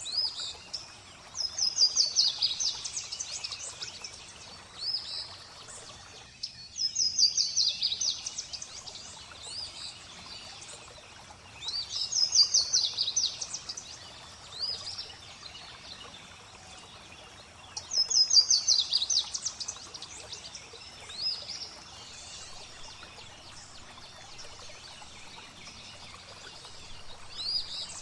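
A songbird singing a repeated phrase, a quick run of high falling notes about two seconds long, four times with short chirps between, over a steady background of flowing water. The water sound drops out briefly about six seconds in.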